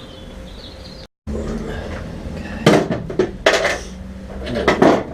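Small metal parts of the aero catch fittings clinking and knocking together as they are handled, a few sharp clinks in quick groups.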